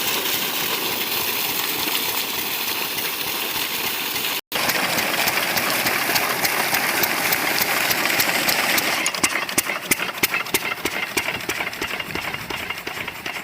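12 hp diesel water-pump engine running steadily, with a short break about four seconds in. In the last few seconds its fast, even knocking beats stand out clearly.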